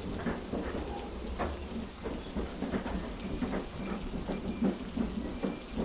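Heavy rain ambience: a steady hiss of rain over a constant low rumble, with frequent soft, irregular knocks.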